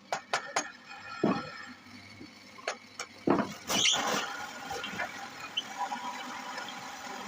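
Wood lathe work: a few sharp clicks and two heavier knocks, then a burst of cutting noise about four seconds in, followed by a steadier whine from the spinning lathe.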